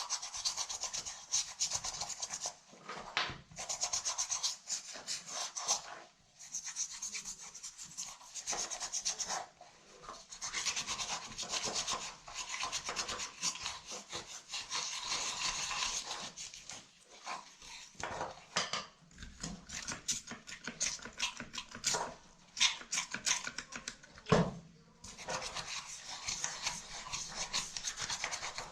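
Rapid scrubbing strokes on a muddy handbag during cleaning, coming in runs of a few seconds with short pauses between them. One sharp knock comes near the end.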